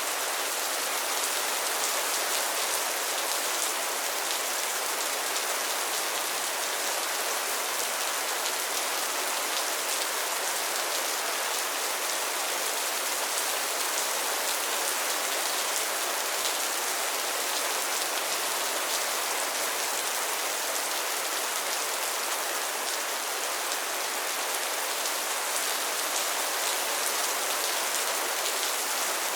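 Steady rain falling on a pond's water surface and lily pads, a dense even patter of drops.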